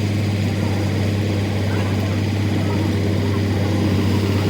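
Steady, unchanging low machine hum with a hiss above it.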